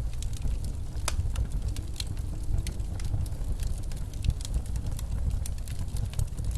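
Wood fire crackling in a fireplace, with irregular sharp pops several times a second, over a steady low rumble of snowstorm wind.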